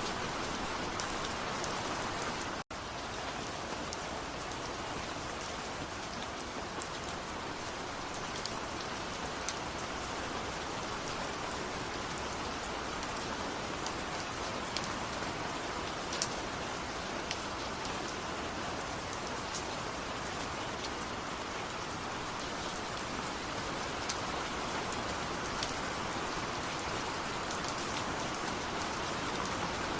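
Steady rain falling, an even hiss with scattered individual drops ticking on a surface. The sound drops out for an instant a little under three seconds in.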